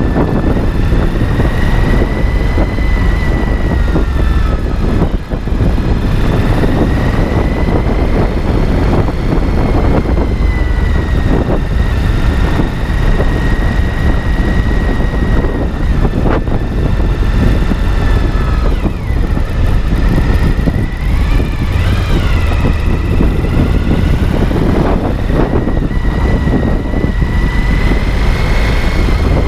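Steady mechanical drone with a deep rumble and a high whine that wavers slowly in pitch, dipping and rising a little past the middle.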